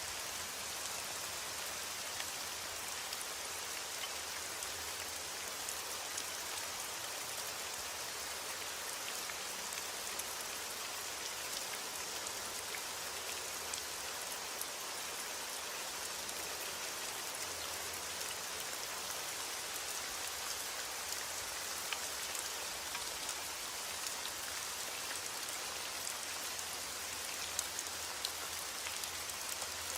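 Steady heavy rain falling, an even hiss with scattered individual drops ticking on a surface.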